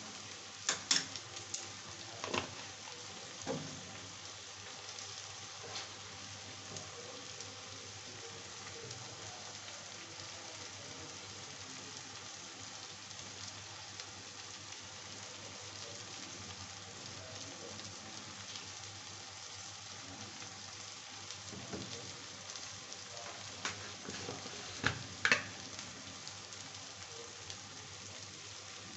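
Sliced onions and red chilli powder frying in oil in a kadhai: a steady sizzling hiss, with a few sharp clicks and knocks about a second in and again near the end.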